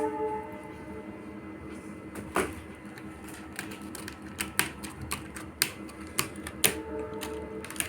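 Irregular light clicks and taps, a dozen or so scattered through the second half. Near the end a steady horn-like tone sounds for about a second.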